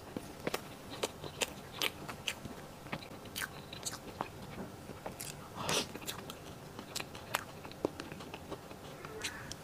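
Close-up mouth sounds of a person eating soft taro-paste cream cake: wet chewing and lip smacks as a scatter of small clicks, with one louder mouth sound a little over halfway through.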